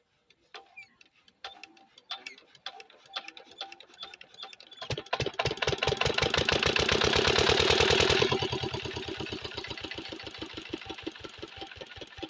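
Diesel water-pump engine being started: a few slow clicks while it is turned over, then it catches about five seconds in and runs fast and loud for about three seconds before settling to a slower, steady beat.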